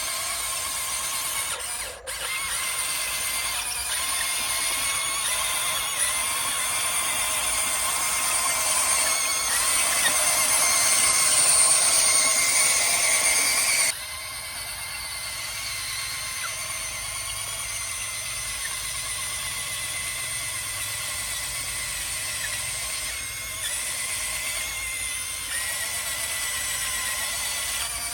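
Electric drive motor and gearbox of an RC dump truck whining steadily with a high, squealing gear noise. It turns suddenly quieter about halfway through.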